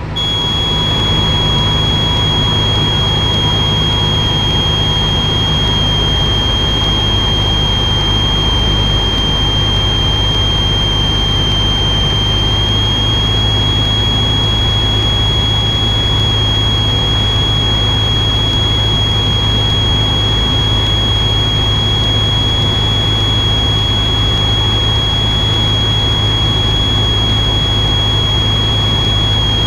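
Cessna 172 cabin noise: the engine and propeller drone steadily at constant power, with a thin, constant high-pitched whine over it.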